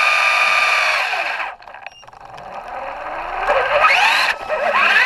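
Traxxas RC truck's electric motor running at a steady high whine, winding down and stopping about a second and a half in. It then spins up again in rising and falling whines as the throttle is worked, cutting out briefly near the end.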